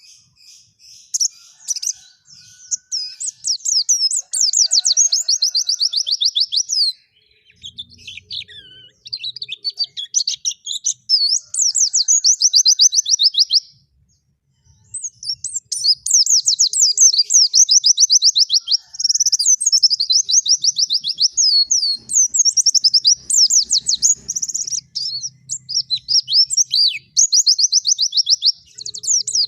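A small songbird singing long, rapid, high-pitched trills of quickly repeated notes, in phrases of several seconds with short breaks. It is a tutor recording of the kind played to train captive songbirds.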